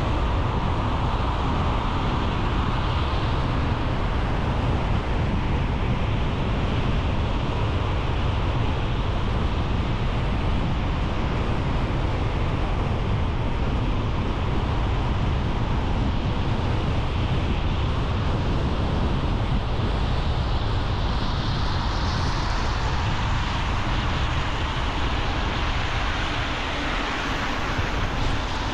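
Steady noise of a car on the move: road and wind noise over a low rumble, unchanging throughout.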